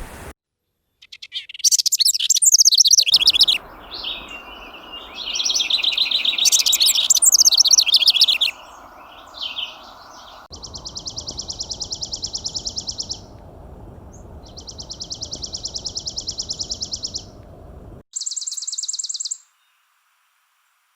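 Songbirds singing: first loud, varied, chattering song phrases, then three separate dry, rapid, even trills of two to three seconds each, over a steady rushing hiss.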